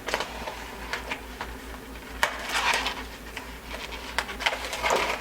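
Rustling and light clicks of a carburetor rebuild kit's gaskets and packaging being handled, in irregular bursts, the longest about two and a half seconds in and another near the end.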